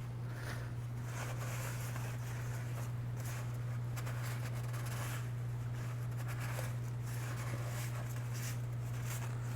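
Soft, irregular rubbing and wiping as the disco light's housing is cleaned by hand, over a steady low electrical hum.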